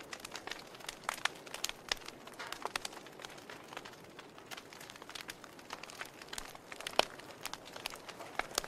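Wood fire crackling: irregular sharp snaps and pops over a soft steady hiss, the loudest snap about seven seconds in.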